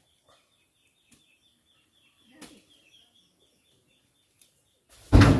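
A bird chirping in a quick run of high notes, about four a second, which dies away about halfway through, with a soft knock. Near the end comes a heavy, loud thud with a short low ringing, typical of an oil palm fruit bunch landing in a dump truck's bed.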